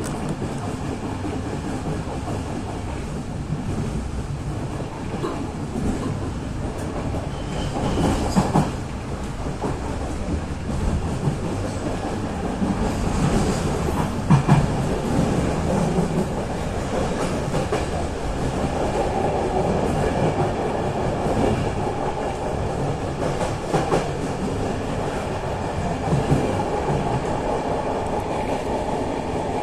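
Running noise of an electric 'Pantograf' multiple-unit train heard from inside the carriage: a steady rumble with wheels clacking over rail joints, and a few louder knocks about 8, 14 and 24 seconds in.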